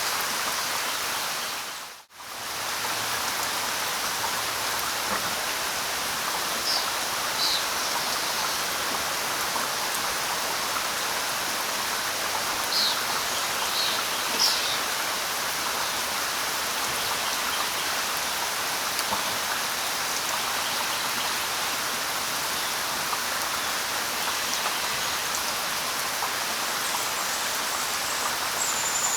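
Steady light rain falling on leaves, with a few short, high bird chirps in the first half. The sound drops out for a moment about two seconds in, then comes straight back.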